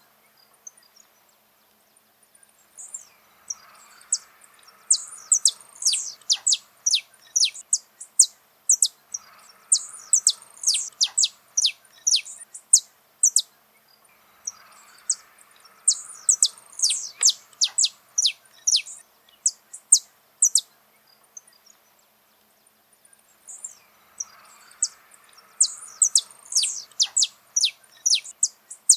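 Saffron finch singing in bouts of rapid, sharp, high-pitched notes. Each bout lasts several seconds, and short pauses of a second or two separate them.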